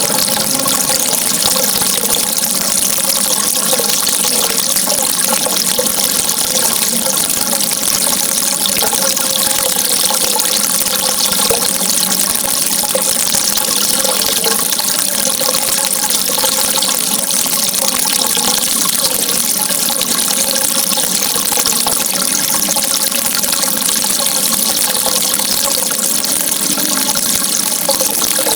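Steady, unbroken flow of running water, even in level throughout.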